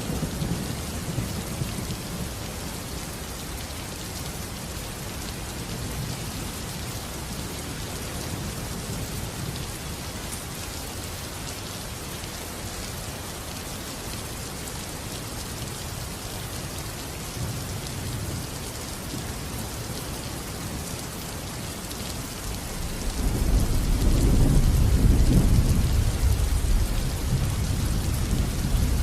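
Steady heavy rain falling, with rolling thunder: a rumble in the first couple of seconds and a louder, longer rumble of thunder building from about 23 seconds in.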